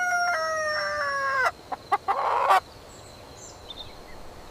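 Rooster crowing: the long drawn-out last note of the crow sags slowly in pitch and stops about a second and a half in. A short cluck-like call follows about two seconds in.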